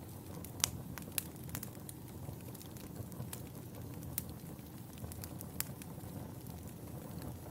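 Wood fire burning in a fireplace, a steady low rumble of flames with irregular sharp crackles and pops, the loudest a little after half a second in.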